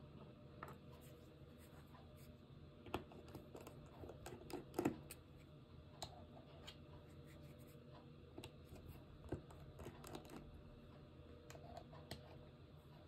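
Faint scattered small clicks and taps over a steady low hum, a few louder ones around three and five seconds in.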